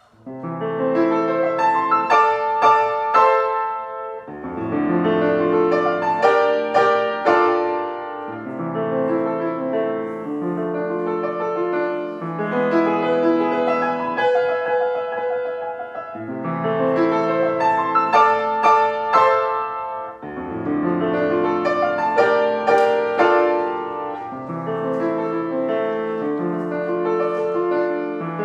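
Solo piano music starting right after a moment of silence, its phrases recurring about every four seconds.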